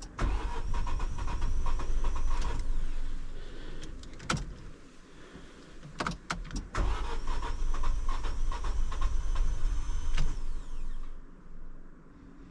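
MG ZS engine cranked over by its starter motor twice, for about three and then about four seconds, without starting. A few sharp clicks fall in the quiet gap between the two attempts.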